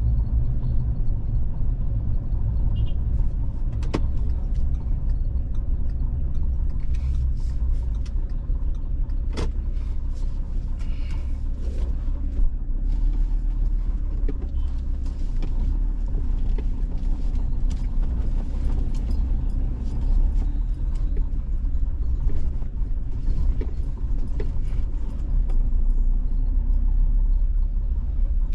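Steady low rumble of a vehicle driving along a road, engine and road noise, with two sharp clicks in the first ten seconds.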